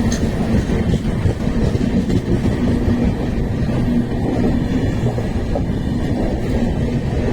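Passenger train of LHB coaches hauled by a WAP-7 electric locomotive running on the track, giving a loud, steady rumble of wheels on rail.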